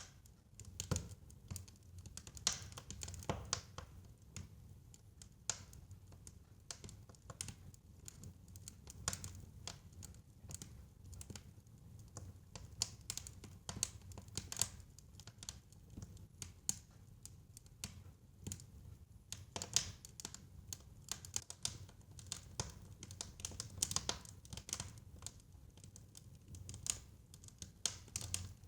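Fireplace fire crackling: irregular sharp pops and snaps, a few each second, over a low steady rumble.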